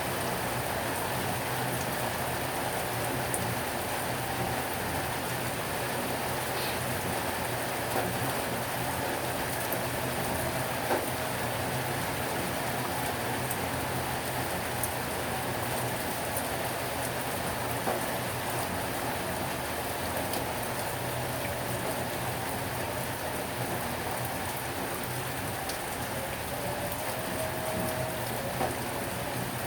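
Heavy rain falling steadily, a dense even hiss of rain on surfaces with a few individual drops ticking now and then.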